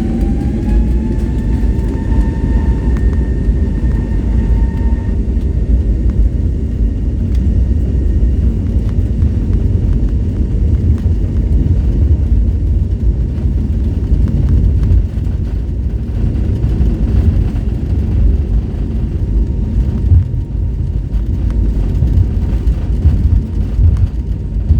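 Airbus A320neo's Pratt & Whitney PW1100G geared turbofans spooling up to takeoff thrust. A rising whine levels off about two seconds in and fades after about five, over a steady heavy low rumble.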